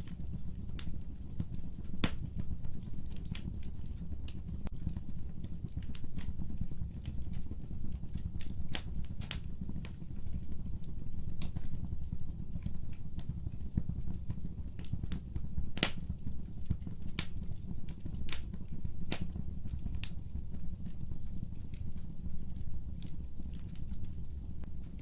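Fireplace fire burning with a steady low rumble and irregular sharp crackles and pops, a few louder pops standing out about two seconds in and again past the middle.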